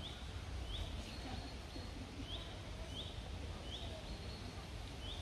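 A small bird calling over and over, one short high note that rises quickly and then levels off, about once a second, over a low steady rumble.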